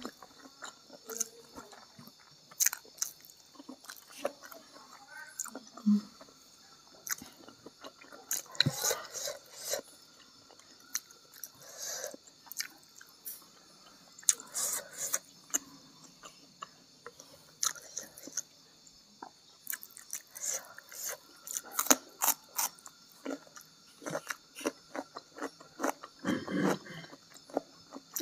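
Close-miked chewing of a mouthful of rice and salted fish, with many short wet clicks and smacks of the mouth. A louder, lower mouth sound comes near the end.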